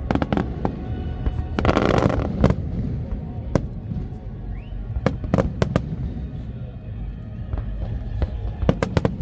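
Aerial fireworks display: sharp bangs and crackling bursts over a steady low rumble of shells. A dense run of crackles comes about two seconds in, single loud reports follow every second or so, and another quick cluster of bangs comes near the end.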